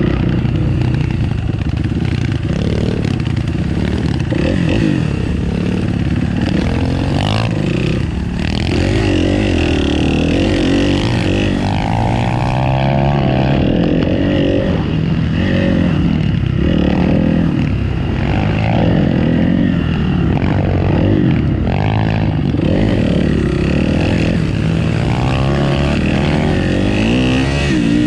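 Motorcycle engine running and being revved up and down again and again, its pitch rising and falling.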